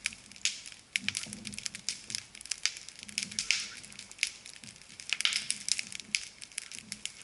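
Wood campfire burning and crackling, with many irregular sharp pops and snaps.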